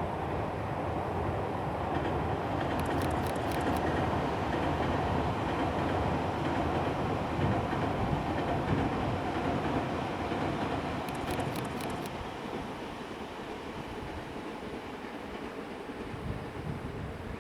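Tobu Tōjō Line electric train running past with a steady rumble, two short runs of rapid high clicks about 3 and 11 seconds in, easing off over the last few seconds.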